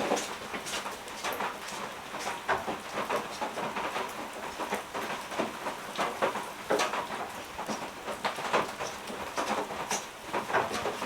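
Steady heavy rain falling, with many irregular short crackles and taps mixed through it.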